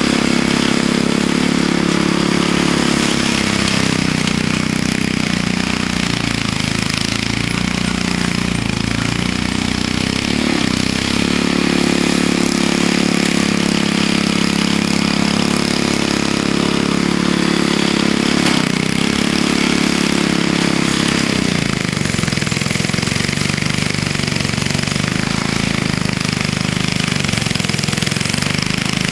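Vintage Snow Bird snowblower's engine running with the choke partly out as it chews into hard ice-packed snow. Its pitch dips and recovers several times, then settles lower near the end as it bogs down under the load.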